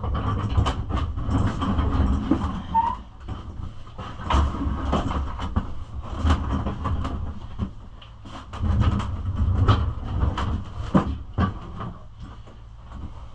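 Irregular knocks, clicks and rattles of handling, over an uneven low rumble.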